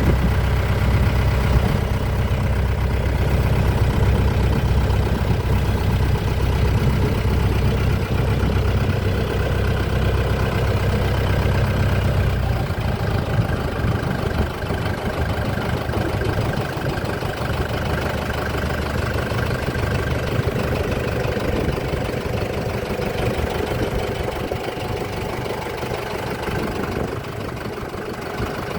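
Motorboat engine running steadily, with a low rumble that eases about halfway through.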